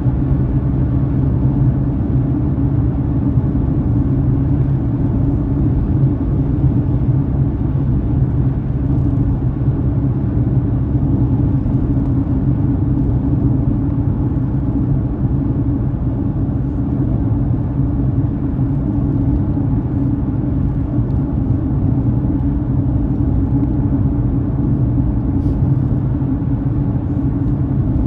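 Car driving at a steady pace: an even, low rumble of engine and tyres on the road, with a steady low hum.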